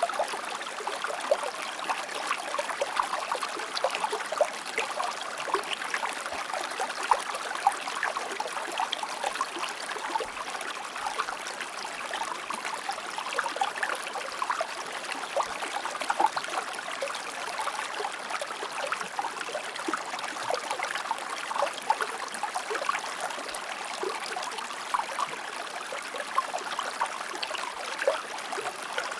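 Shallow river or stream flowing over rocks: steady rushing water full of small splashes and gurgles.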